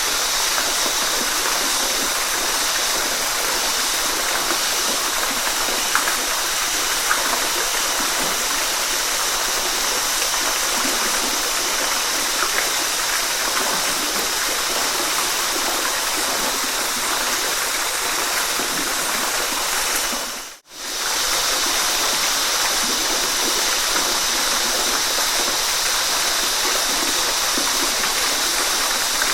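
Waterfall: a steady, dense rush of falling water. About two-thirds of the way through, the sound dips to near silence for under a second, then comes straight back.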